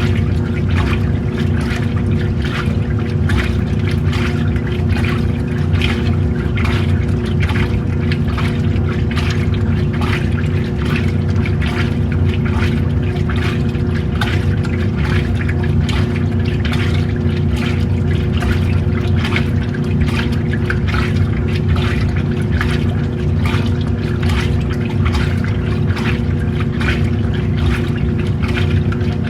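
Old-style washing machine running: a steady motor hum under water sloshing in the tub.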